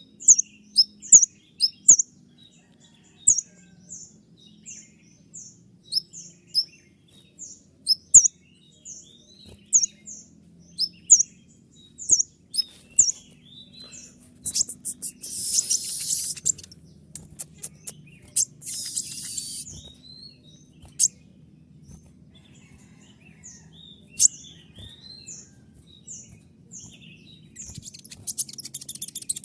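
Olive-backed sunbird (kolibri ninja) singing its shrill 'tembakan' song: sharp, high-pitched chip notes fired off in quick succession, broken by brief fast buzzy trills about halfway through and again near the end.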